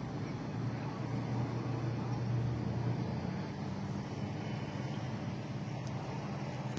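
A large engine running steadily after a hard start, a constant low hum with no change in speed.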